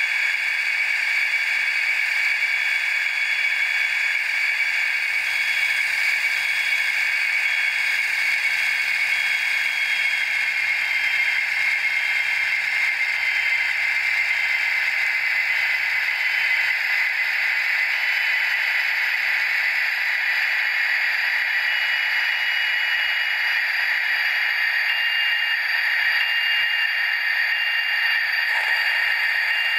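Sound decoder of an N-scale BR 218 model diesel locomotive playing its engine sound through a tiny speaker: a steady, thin, hissy running noise with no bass and a few tones sinking slowly in pitch. The owner is not happy with this sound.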